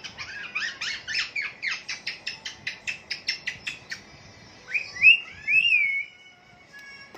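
Birds chirping: a fast run of short chirps, about four or five a second, for the first four seconds, then two louder whistled calls that rise and fall, about five seconds in.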